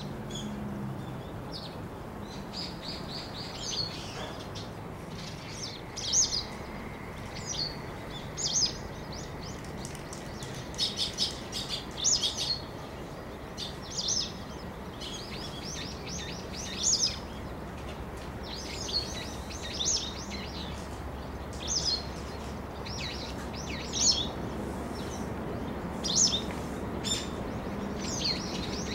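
Small birds chirping, short runs of high calls coming every second or two, over a steady low background hum.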